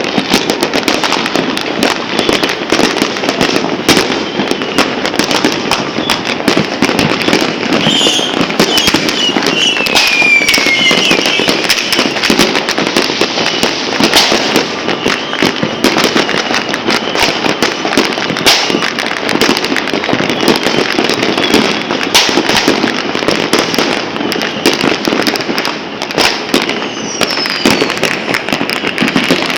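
New Year's fireworks and firecrackers going off without pause, a dense crackle of many bangs, with a falling whistle about ten seconds in and another near the end.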